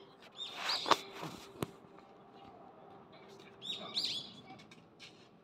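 A small bird chirping in two short bouts of quick high rising-and-falling calls, about half a second in and again around four seconds in. Two sharp clicks come about a second and a second and a half in, the first the loudest sound.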